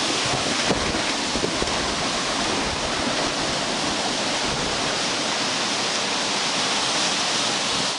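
Storm wind blowing hard and steadily as a loud rushing noise, with a few faint knocks in the first two seconds.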